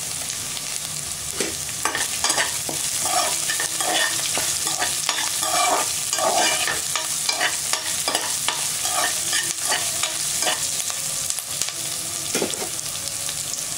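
Chopped onion, curry leaves, dried red chillies and garlic sizzling in hot oil in an aluminium pressure cooker, with a spoon stirring them and repeatedly scraping and knocking against the pot.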